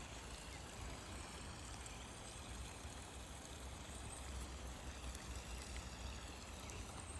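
Faint, steady sound of creek water flowing, with a low rumble underneath.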